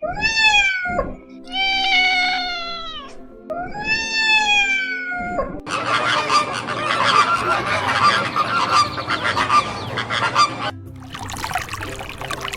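Three long pitched animal calls, each rising and then falling, over faint background music. About halfway through they give way to a dense, noisy stretch, and near the end to the sound of running water.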